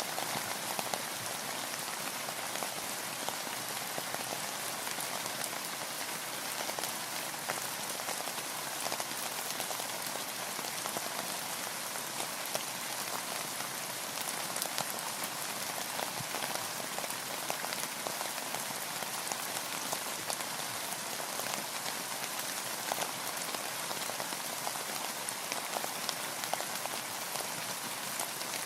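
Steady rain falling on a boat, with many small separate drop ticks over an even hiss.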